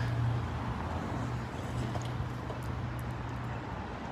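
Steady street background noise with the low, even hum of an idling vehicle engine.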